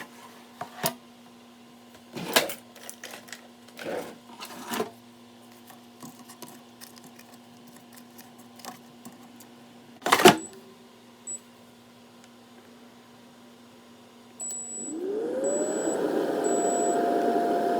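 Air fryer being handled, with scattered clicks and knocks and a sharp clack about ten seconds in. Near the end its control panel gives short high beeps as its fan starts, the whir rising in pitch and settling into a steady hum.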